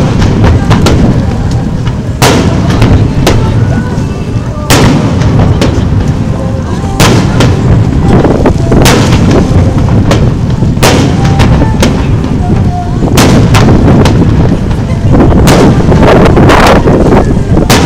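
Aerial firework shells bursting in quick succession: loud, sharp bangs about one or two a second over a continuous low rumble.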